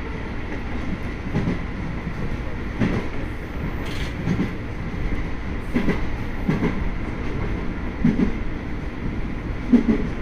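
Sagami Line electric commuter train running along the track, heard from on board: a steady rumble with the wheels clacking over rail joints about every second and a half, sometimes in quick pairs.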